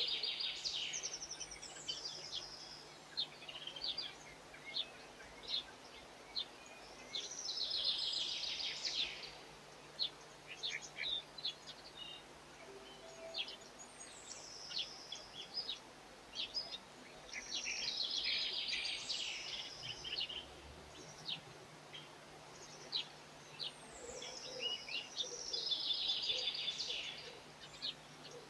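Songbird singing the same short song phrase over and over, about every eight seconds: a falling high note followed by a fast trill. Scattered short chirps fall between the phrases.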